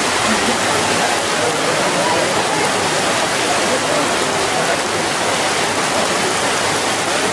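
Heavy rain pouring down as a loud, steady hiss, with faint voices underneath.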